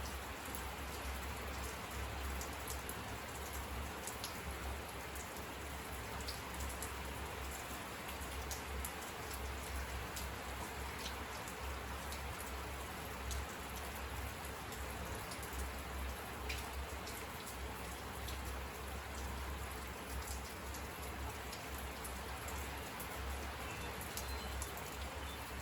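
Steady rain falling, an even hiss with many individual drops ticking sharply on a surface close by.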